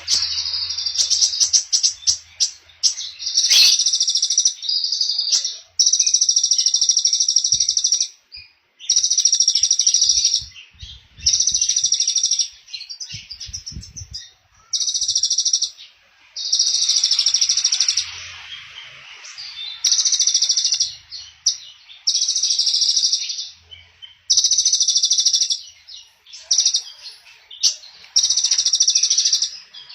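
Small songbird singing a rapid, high trill ('trotol') in repeated bursts of one to two seconds with short pauses between them, about a dozen times.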